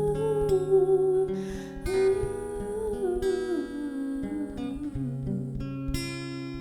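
Acoustic guitar played under a long, wavering held vocal note that fades out about three and a half seconds in. The guitar chords carry on alone after that.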